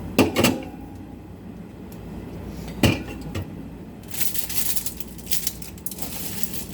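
Food containers and jars being knocked and set down on refrigerator shelves while it is restocked: a couple of sharp knocks near the start and about three seconds in, then a run of scraping and handling noise from about four seconds on.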